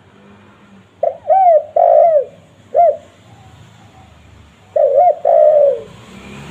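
Spotted dove cooing: two phrases of low, arched coos, the first starting about a second in, the second near five seconds in, each ending on a longer drawn-out note. A faint hiss rises near the end.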